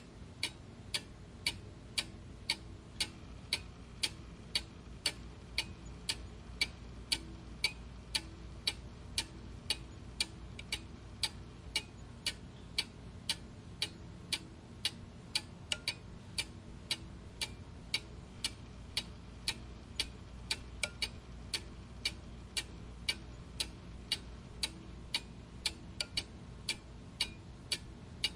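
Mechanical clock ticking steadily at about two ticks a second, each tick a sharp click, over a steady low hum.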